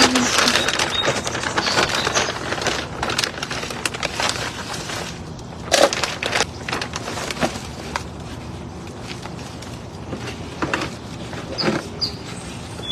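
Crackling, crunching handling noises from repotting a plant: soil, roots and pot being worked by hand. Dense for the first few seconds, then sparser, with a few sharper cracks later.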